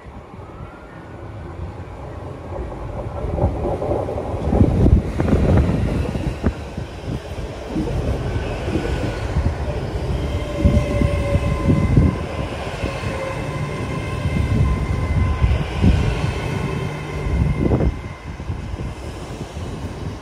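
GWR Class 802 bi-mode train running on its underfloor diesel engines as it comes into the platform and rolls past close by. It gets louder over the first few seconds, with wheels clattering and clunking over the track and a steady whine through the middle.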